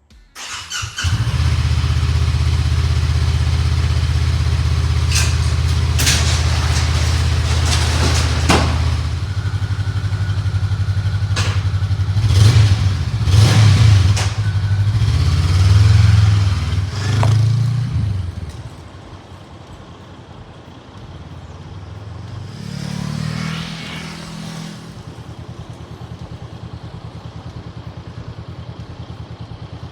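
Honda CL500's parallel-twin engine running at a steady idle from about a second in, then revved several times. After that it settles to a quieter idle with one small blip of the throttle.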